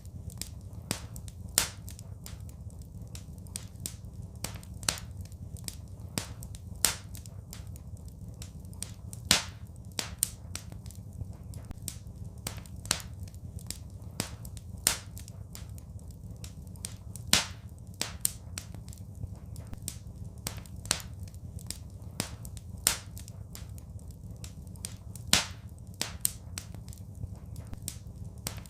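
Wood fire crackling in a fireplace: frequent irregular sharp pops and snaps over a steady low rumble, with a few louder pops standing out.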